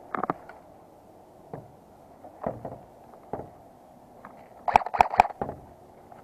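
Scattered knocks and rustles of a player moving, then three sharp cracks in quick succession about five seconds in, typical of an airsoft gun firing.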